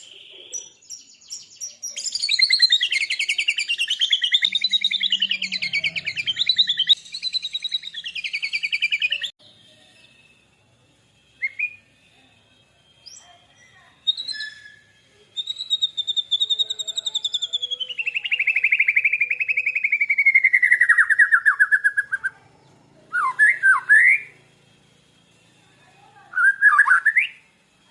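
White-rumped shama and lovebird singing: long, rapid trilled phrases that waver up and down, one long trill that slides downward, and a few short sharp chirps near the end, with short pauses between.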